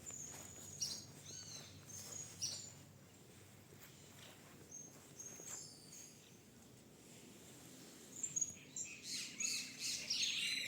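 Birds chirping and calling, short high whistles and chirps coming one after another, over a faint steady background hum. Near the end the calls crowd together into a busier, louder chorus.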